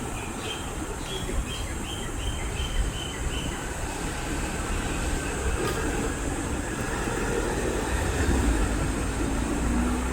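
A quick series of short, evenly spaced calls, about three a second, over the first three seconds or so, typical of red-breasted parakeets. Under them a steady low rumble grows louder in the second half, like a passing train or heavy vehicle.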